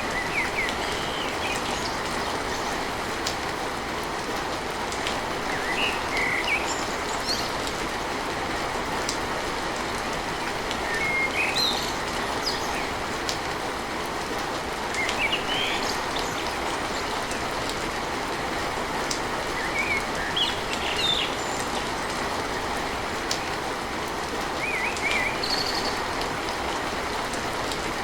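Steady rain on a tin roof, an even hiss, with a bird chirping briefly every few seconds over it.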